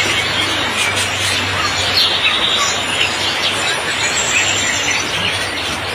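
Heavy rain falling steadily, with songbirds giving short scattered chirps over it and a low steady hum underneath.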